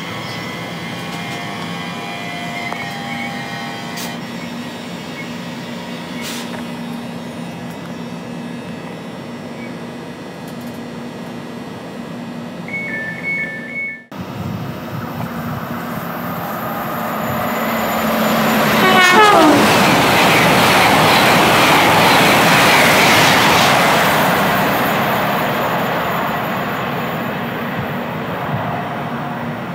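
Class 345 electric train hums steadily as it pulls out of the station. Then a Great Western Railway Intercity Express Train passes through at speed: its rumble swells, is loudest for about five seconds with a quick falling tone as it goes by, and fades away.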